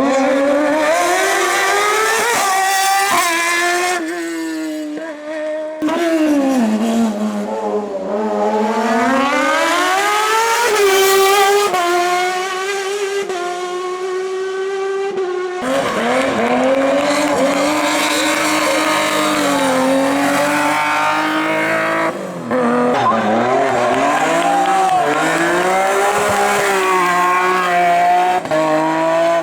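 Competition car engines revving hard under load. The pitch climbs through each gear and drops at every shift, and the sound changes abruptly a few times as different cars or passes follow one another.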